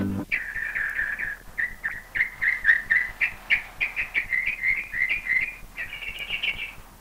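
Bird song: a long run of quick, clear chirping notes, several a second, with a couple of short breaks.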